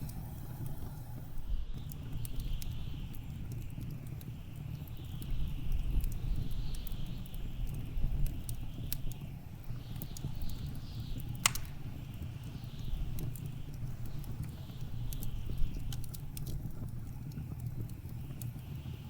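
Wood fire crackling in a fireplace, with scattered sharp pops, over the steady low rumble of blizzard wind that swells and eases.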